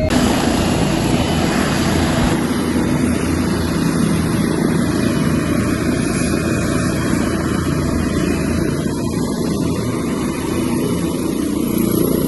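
Police helicopter running, a steady loud engine and rotor noise.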